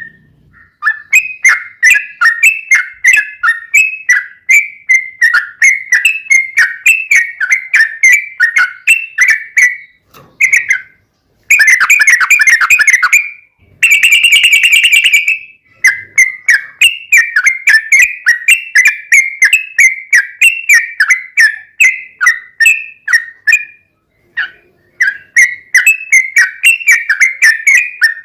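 Yellow-vented bulbul (trucukan) singing a long, rapid run of loud repeated whistled notes, about two to three a second. Around the middle the run breaks into two short bursts of dense, harsher chatter, with brief pauses before and after.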